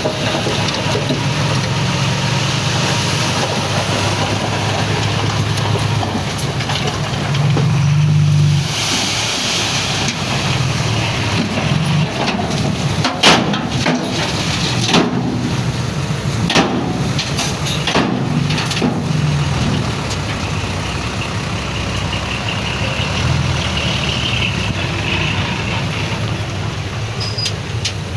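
Heavy diesel earthmoving machinery running steadily. It swells briefly about eight seconds in, followed by a short hiss, and several sharp knocks come in the middle.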